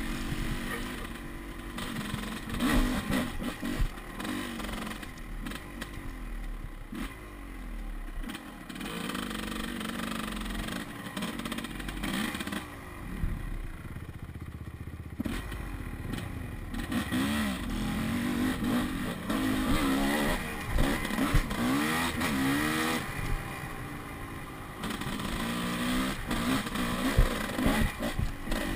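Dirt bike engine revving up and down over and over, the throttle worked on and off as the bike rides a rough trail, with clattering knocks along the way.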